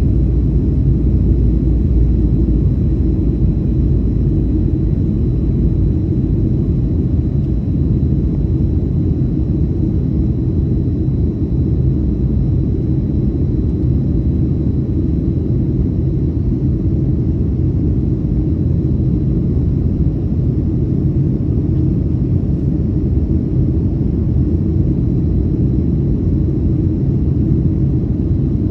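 Boeing 737 cabin noise in flight: the steady low rumble of the engines and rushing air heard from a passenger seat, with a thin steady whine above it. The deepest part of the rumble eases slightly about six seconds in.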